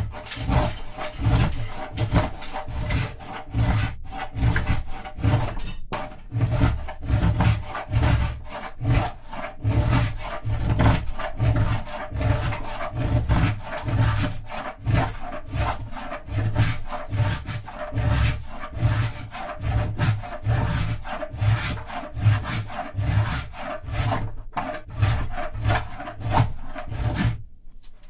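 A hand tool rasps a carved mulberry-wood bowl in steady, rhythmic strokes, about one and a half a second, thinning the bowl's walls. The strokes stop shortly before the end.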